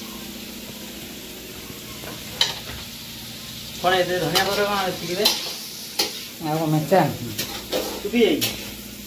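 Food frying with a steady sizzle in a metal kadai as it is stirred with a metal spatula. Several sharp clinks of the spatula against the pan come in the second half.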